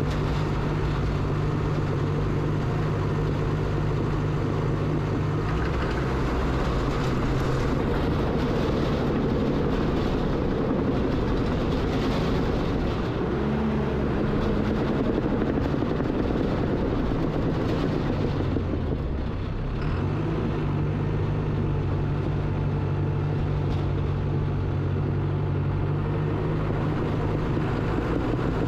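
Earthmoving machine's engine running steadily under load, its low engine note dropping and rising a few times as the work changes.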